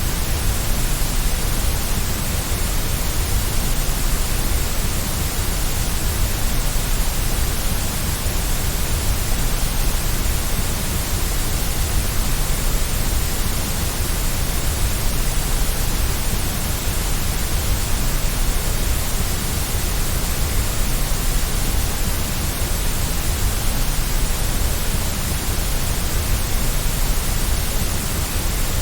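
Steady white noise for soothing a baby to sleep: an even, unbroken hiss across the whole range, fullest in the deep lows, with no changes.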